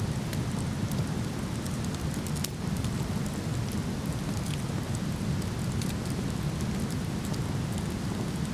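Waterfall rushing steadily, with a wood fire crackling over it in scattered small pops.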